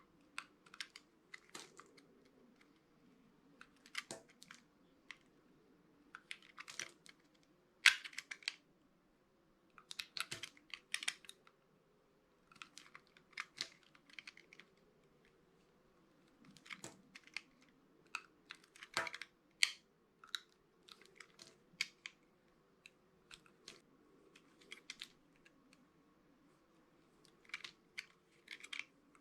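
A knife cutting dry bar soap: clusters of short crackling clicks every few seconds, the loudest about eight and nineteen seconds in.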